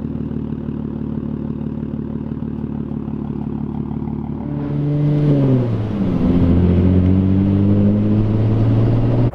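Nissan G35 coupe's 3.5-litre V6 through an aftermarket Tomei single-exit 3-inch exhaust, running with a steady note for a few seconds. About four and a half seconds in it gets louder, the pitch dips briefly, and it then holds a steady, louder drone.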